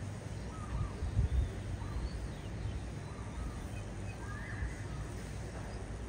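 Faint, scattered bird calls, short chirps and gliding notes, over a steady low outdoor rumble of wind and distant background noise, with a few low thumps about a second in.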